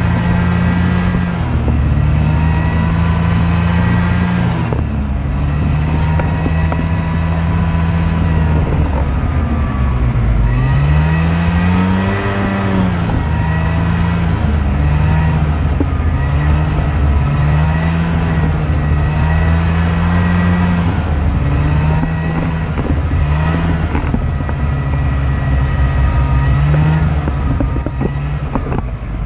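Snowmobile engine running under a changing throttle: its pitch repeatedly rises and falls, with one big surge and drop about twelve seconds in.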